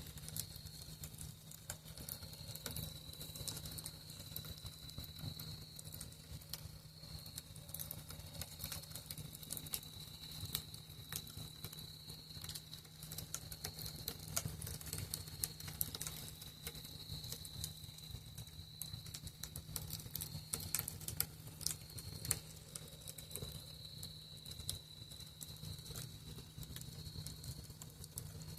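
Campfire crackling with frequent irregular sharp pops, over the steady high-pitched trill of crickets.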